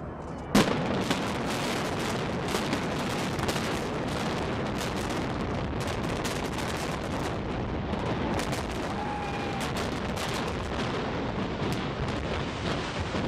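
Demolition implosion of a stadium: one sharp blast about half a second in, then a rapid string of explosive charges cracking, many a second, over a steady rumble.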